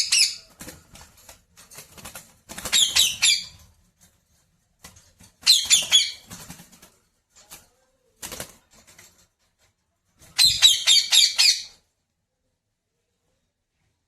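Pet parrot giving four bursts of rapid, shrill squawking calls, each about a second long, with short gaps between them.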